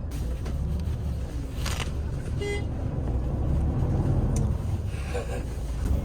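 Steady low rumble of a road vehicle running, with a short pitched beep about two and a half seconds in and a sharp click near the end.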